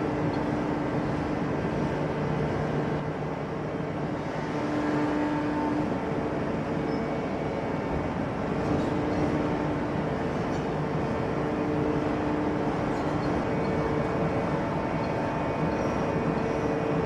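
Heavy hydraulic forging press and its shop machinery running: a steady noise with a hum whose tones switch on and off every second or two, and no hammer blows.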